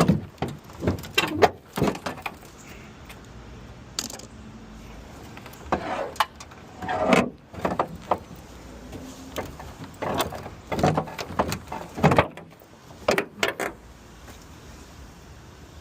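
Irregular metal clanks, knocks and rattles from the crash-damaged body of a 2007 Honda Accord as a stuck part is pulled and worked by hand to force it open, without success. The clanks stop about three quarters of the way through.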